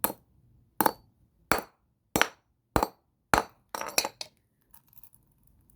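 Hammer striking a toy car: six sharp blows about two every second or so, then a quick cluster of smaller knocks around four seconds in.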